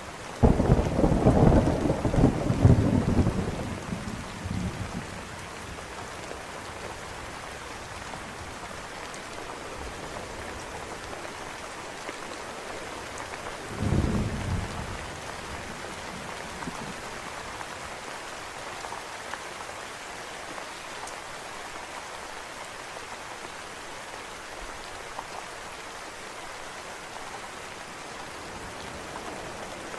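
Steady rain with two rolls of thunder: a loud, long rumble starting about half a second in and dying away by about four seconds, and a shorter, weaker one at around fourteen seconds.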